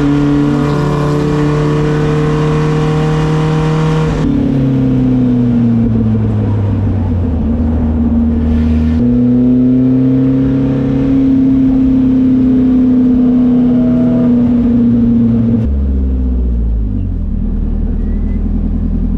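Race car engines running hard on track, their pitch falling and rising with throttle and gear changes. The sound changes abruptly about four seconds in and again near the end, where one clip cuts to another.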